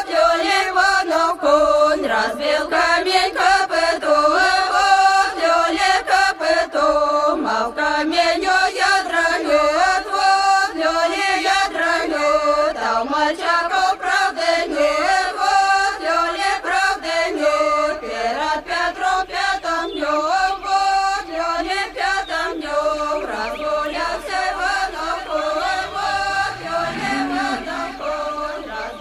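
Devotional chanting with music: a sung, mantra-like vocal line over accompaniment, steady throughout, with a low rising tone near the end.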